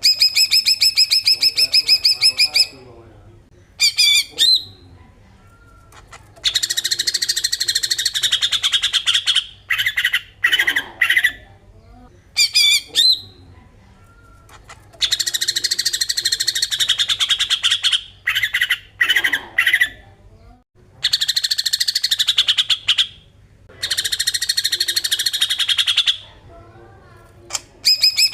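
Cucak ijo (green leafbird) giving its harsh 'besetan' call: loud phrases of rapid rattling buzz and dense chattering song, two to three seconds each, repeated with short pauses between them. A faint steady low hum runs underneath.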